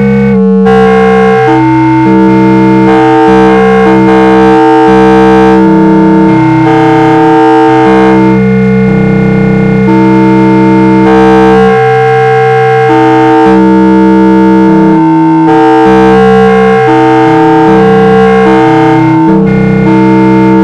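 Algorithmically generated synthesizer tones: several steady held pitches sounding together, each stepping to a new note every second or so in an irregular, chord-like sequence.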